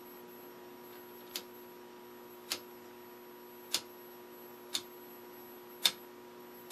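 The rotary channel selector of a Predicta Princess TV's tuner clicking from one channel position to the next, six sharp clicks about a second apart, over a steady hum from the set. The tuner is dirty.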